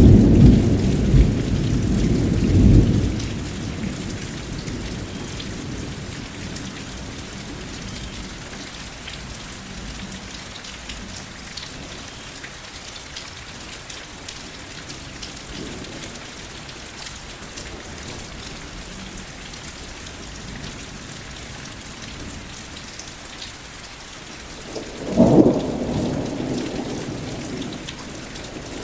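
Steady rain with thunder. A low rumble of thunder in the first few seconds dies away. A sharper clap comes about 25 seconds in and rumbles off over a few seconds.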